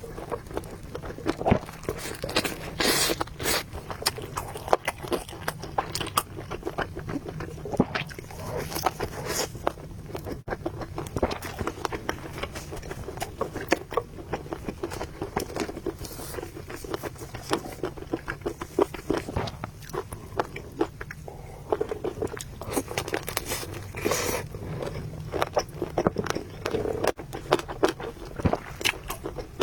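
A person eating noodles and meatballs close to the microphone: steady chewing and biting with many small wet clicks, and a few louder bursts of noise near the start, around nine seconds and around twenty-four seconds, over a low steady hum.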